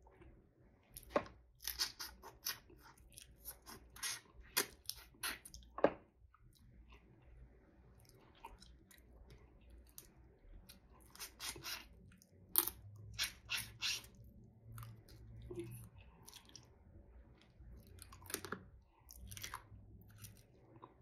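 Close-miked chewing of seafood: wet mouth clicks and smacks in bursts, with quieter stretches between.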